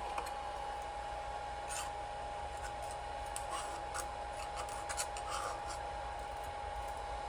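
3D printer running with a steady whine and hum. A scatter of small clicks and scraping sounds falls through the middle of it.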